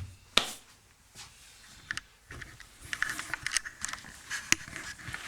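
Small handling noises: a few sharp clicks and light knocks, busiest in the second half, the loudest click coming near the end.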